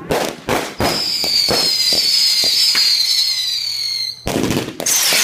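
Consumer fireworks going off: a few sharp bangs, then a high whistle lasting about three seconds that falls slightly in pitch, with scattered pops under it. Another run of loud bangs follows near the end.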